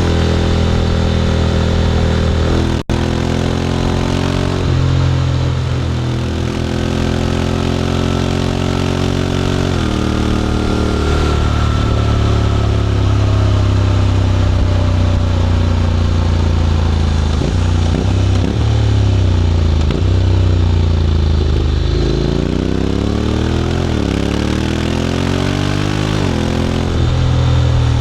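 Honda X-ADV 750's parallel-twin engine running under way through an SC-Project titanium slip-on exhaust. The engine note holds steady, drops about ten seconds in, and climbs in several quick rising sweeps near the end as the bike accelerates. The sound cuts out for an instant about three seconds in.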